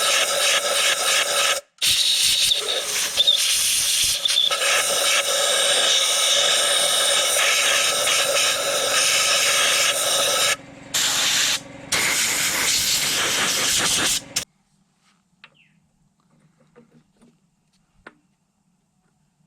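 A loud, steady hissing noise from a tool or machine, cut off briefly three times, that stops abruptly about fourteen seconds in, leaving near silence with a few faint ticks.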